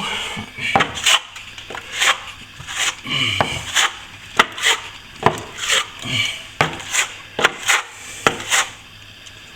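Plasterer's float scraping and rubbing over a freshly applied second coat of plaster on a wall, with frequent sharp taps and knocks in between.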